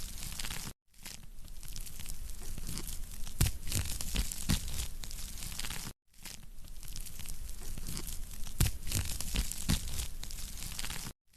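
Wood fire burning in a fireplace, crackling and popping irregularly over a steady hiss. The sound drops out completely twice for a moment, about a second in and about six seconds in.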